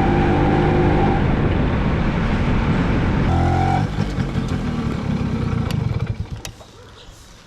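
Two-stroke motorcycle engine running loud under way, with a short pitched note about three and a half seconds in; the engine sound then falls away about six seconds in as the bike slows.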